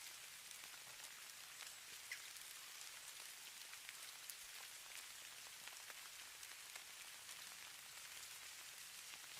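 Faint steady patter of falling snow: a soft high hiss with many tiny scattered ticks of flakes or grains landing.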